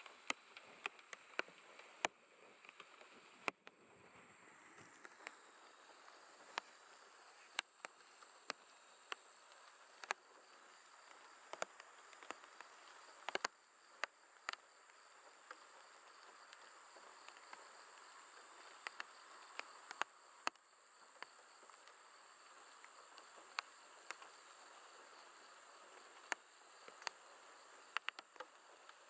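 A chorus of night grass insects, crickets among them, chirping steadily and faintly, with a continuous high-pitched trill. Irregular sharp clicks or ticks are scattered throughout.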